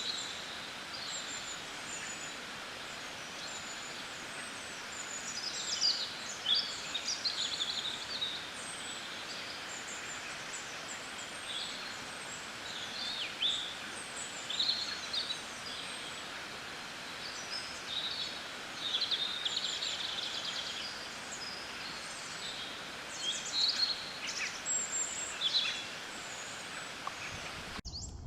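Several small birds chirping and calling in short, quick notes, in irregular clusters over a steady background hiss of outdoor ambience. The hiss cuts off abruptly just before the end.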